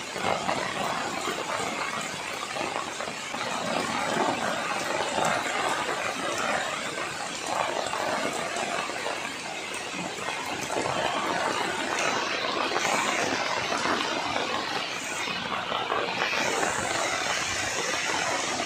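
Heavy rain pouring steadily onto dense trees and foliage, a continuous even hiss of downpour.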